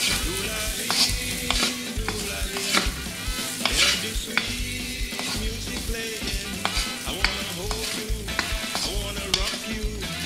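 Diced potatoes sizzling as they fry in oil in a wok, stirred with a wooden spoon that scrapes and taps against the pan over and over, about once or twice a second.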